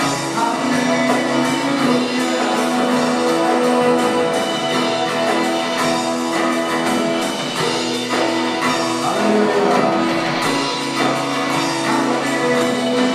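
A band playing a worship song, a passage without sung words, with guitar among the instruments and sustained chords.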